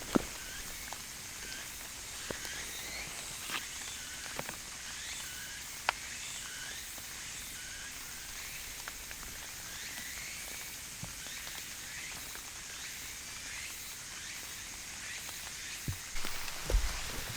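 Outdoor ambience: many short chirps scattered throughout, a few sharp clicks in the first few seconds, and a steady high hiss underneath.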